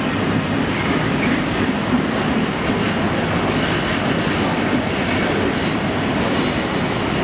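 Freight wagons of two trains rolling past close by: a steady rumble and rattle of wheels on the rails. A thin high wheel squeal joins near the end.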